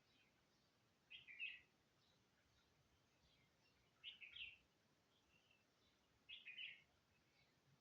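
A bird singing a short phrase of high notes three times, about every two and a half seconds, with faint chirps between.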